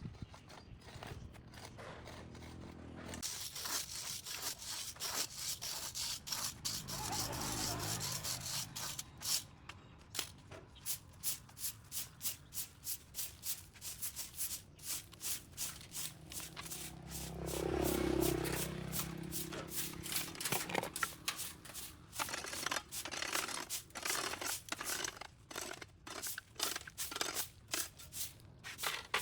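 A hand tool scrapes grass and packed dirt off a sidewalk in a steady run of repeated strokes, about two to three a second. Past the middle, a passing engine swells to the loudest point and then fades.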